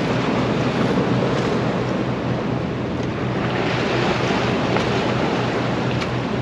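Sea surf washing against a rocky shore, with wind buffeting the microphone; one wave surge swells up about halfway through.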